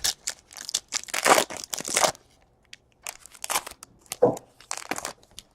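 Crinkling and tearing of a trading-card pack wrapper and the rustle of cards being handled, in irregular bursts with a brief lull about two seconds in.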